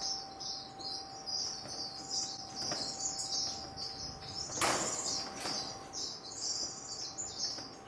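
Aviary of small estrildid finches chirping continuously in a dense, high-pitched chatter. About halfway through there is a brief rushing flutter, like wings flapping.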